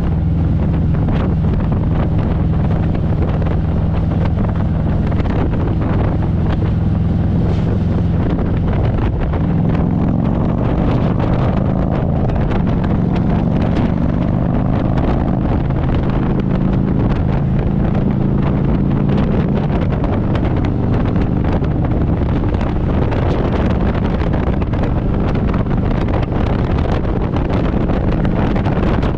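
Harley-Davidson Road Glide's V-twin engine running steadily under way, with wind buffeting the microphone. The engine pitch rises a little about a third of the way through and drops back about two-thirds in.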